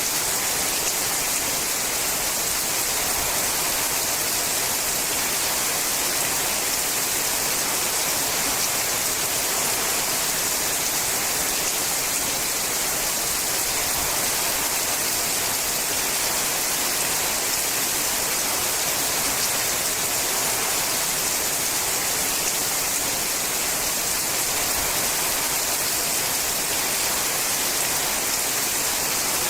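Steady rain falling on a sheet-metal roof: a dense, even hiss of countless drops with no single strikes standing out.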